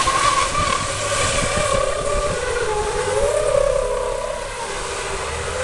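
Truck engine running under load, its pitch rising and then falling back about halfway through.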